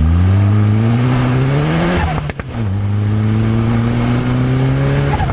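Locost kit car's turbocharged Nissan CA18DET four-cylinder engine accelerating through the gears. The revs climb, fall away at a gear change about two seconds in, then climb again more slowly, with another change near the end.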